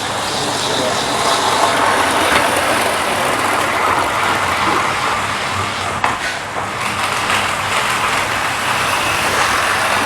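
Electric model trains running on the layout's track: a steady whirr of the motors and wheels rolling on the rails.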